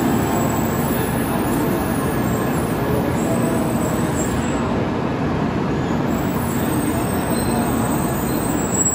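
N700-series Shinkansen train rolling slowly along the platform, a steady rumble of wheels and running gear with faint tones held over it.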